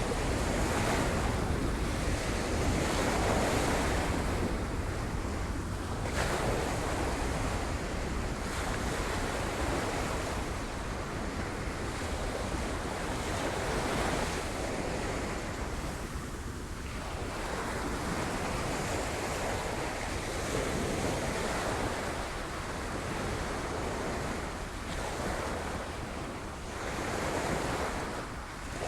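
Sea waves breaking on rocks: a continuous wash of surf that swells and eases every few seconds, with wind rumbling on the microphone underneath.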